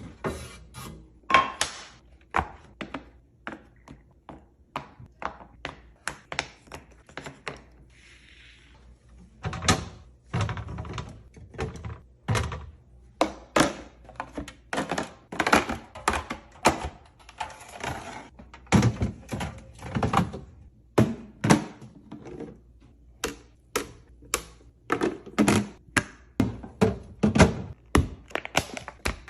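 Containers being set down, stacked and slid into place on refrigerator shelves: a busy, irregular run of clacks and thunks, some ringing briefly, with a short rustle about eight seconds in.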